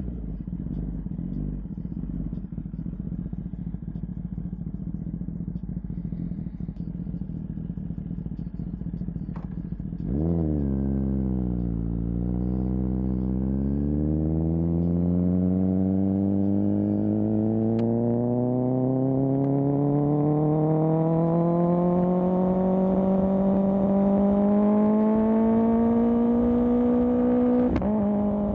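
Kawasaki ZX10R's inline-four engine through an M4 exhaust. It runs steadily at low revs, then gives a quick rev about a third of the way in and dips. After that it climbs slowly and evenly in pitch for about fifteen seconds as the bike pulls, with a brief gear shift near the end.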